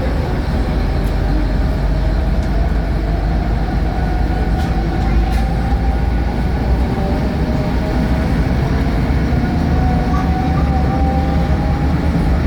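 Vintage diesel railbus running along the line, heard from inside the car: a steady low rumble of engine and wheels on the rails, with a few faint clicks.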